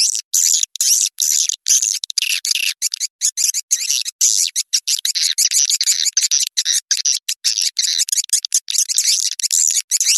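Swiftlet lure call: a recording of many swiftlets twittering, high dense overlapping chirps, broken every fraction of a second by short gaps.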